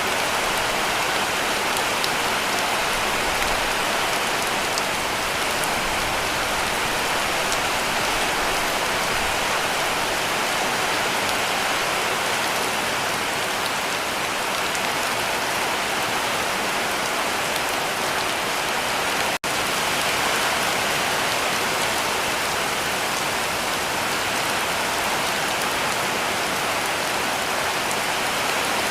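Heavy rain falling steadily on a cabin roof, a dense even hiss of drops, with a split-second dropout about two-thirds of the way through.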